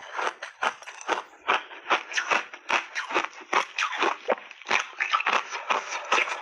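Crunchy refrozen peach-and-berry block ice being bitten and chewed in big bites: rapid, loud crunching, about three crunches a second.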